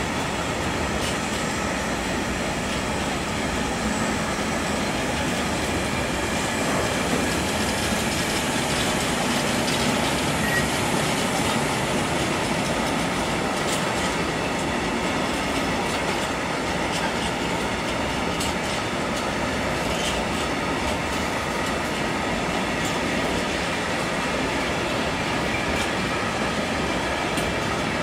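Freight train's rail tank wagons rolling past at steady speed: a continuous rumble of steel wheels on the rails, with light clicking as the wheels cross rail joints.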